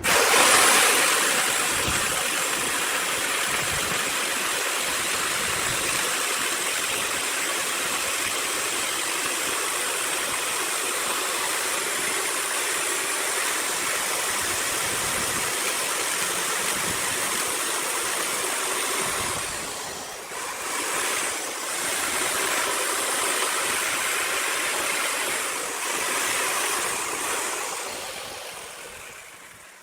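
Gas torch flame hissing steadily as it chars wood, starting abruptly, dipping briefly twice late on and fading out near the end.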